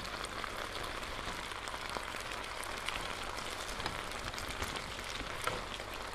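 Chicken and vegetable stir fry simmering in its sauce in an electric skillet, a steady soft sizzle, with a few faint clicks and scrapes of the stirring spoon.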